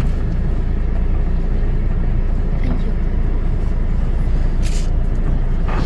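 Steady low rumble heard from inside a car standing in an automatic touchless car wash while the wash applies soap, with two short hissing sprays near the end.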